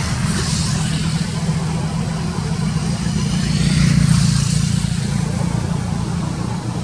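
A motor vehicle engine running with a steady low hum, growing louder about four seconds in and then easing off.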